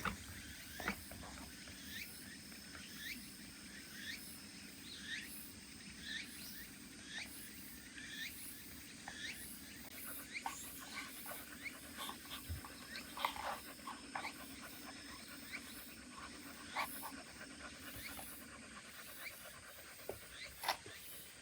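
A terrier whining in short, high, rising whimpers, repeated about once a second over a faint low steady hum that stops near the end.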